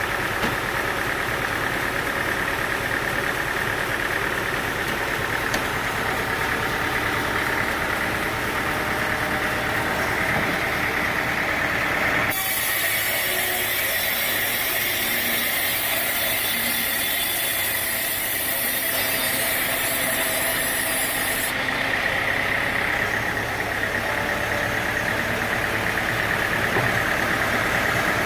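Sawmill machinery running steadily with an engine-like hum. For about nine seconds in the middle, the low hum drops away and a bright, high hiss takes over, then the earlier running sound comes back.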